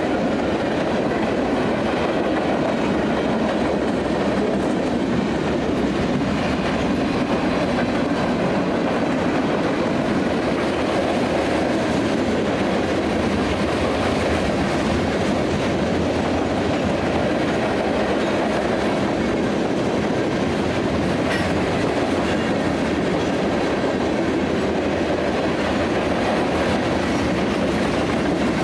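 Freight train cars (boxcars and covered hoppers) rolling past close by: a steady rumble and clatter of steel wheels on the rails that holds even throughout.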